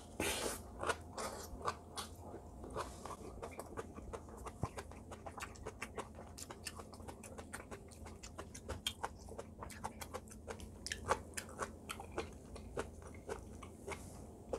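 A person chewing a mouthful of braised kimchi (kimchi jijim) wrapped around mixed-grain rice, close to the microphone: a fast, uneven run of small clicks and crunches.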